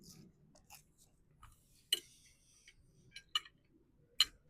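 Cutlery clinking against a plate a few times: single sharp clicks about two and four seconds in, with a quick pair between.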